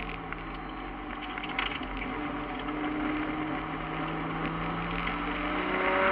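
Turbocharged Toyota 1JZ-GTE VVT-i inline-six in a BMW E36 race car, heard from inside the stripped, caged cabin, running under load at a fairly steady pitch that starts to rise near the end as it pulls harder. Light clicks and rattles from the shell come through over it.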